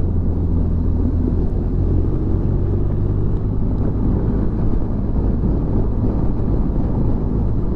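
Motorcycle engine running at a steady cruising speed, with the rush of riding wind.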